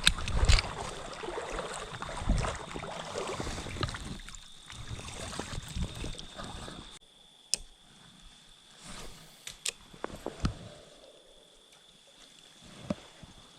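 Rushing creek water and rumbling handling noise for about seven seconds, then much quieter with a few sharp clicks.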